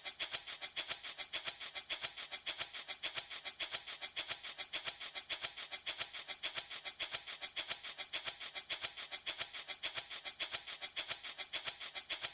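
Handmade wooden baby rattle shaken steadily in a fast, even rhythm, each shake a crisp hissy rattle of beads.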